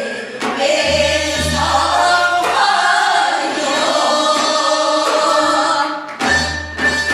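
A group of voices singing Gyeonggi hwimori japga, a Korean folk song, together, with a low accompaniment underneath.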